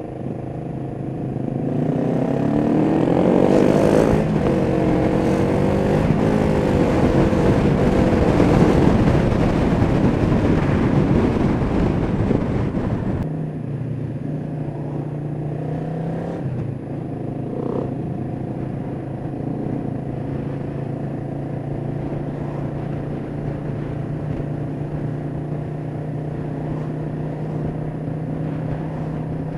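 Kawasaki EN500 Vulcan's parallel-twin engine under way with heavy wind noise, its pitch rising and falling as it revs through the gears. About halfway the wind noise cuts off suddenly and the engine runs on at a steady idle.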